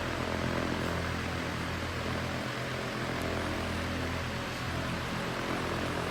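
Harbor Freight 30-inch shop fan running on its lowest setting: a steady rush of air with a low, even motor hum underneath.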